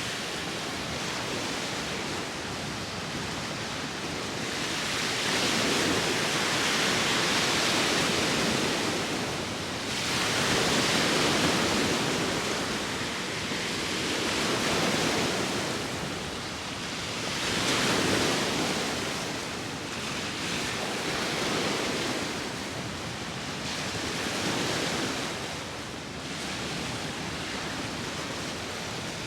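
Sea waves washing ashore, the surf swelling and ebbing every three to four seconds, with wind.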